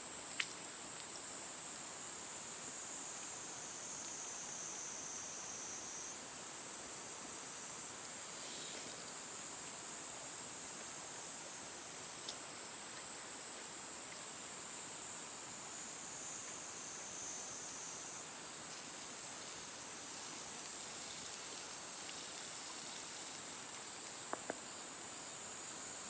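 Insects trilling steadily in a high-pitched chorus that shifts slightly in pitch now and then. A few sharp clicks cut through it, two close together near the end.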